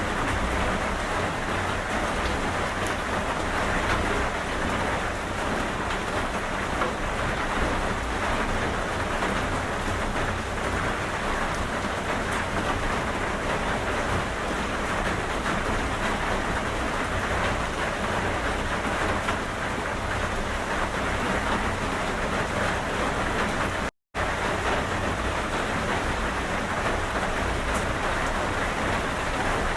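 Rain falling steadily. The sound cuts out completely for a split second about three quarters of the way through.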